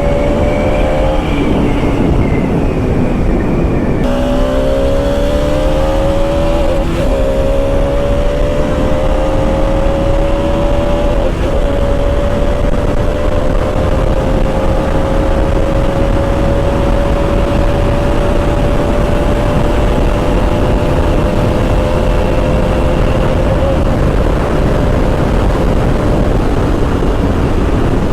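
Bajaj Pulsar RS 200's single-cylinder engine under riding. The revs ease off early, then climb with two quick gear shifts and settle to a nearly steady cruise. Heavy wind rushes over the microphone throughout.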